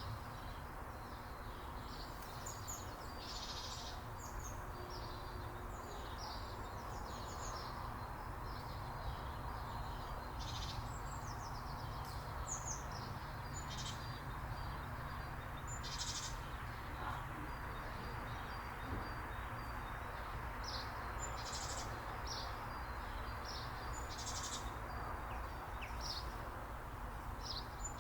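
Small songbirds chirping and calling: short, high chirps come every second or so, some in quick runs, over a steady low background rumble.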